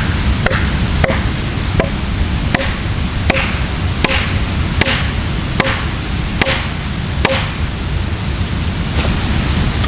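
Ushkuy axe chopping into a log, a steady run of about a dozen strikes roughly one every 0.8 seconds, over a constant low rushing noise.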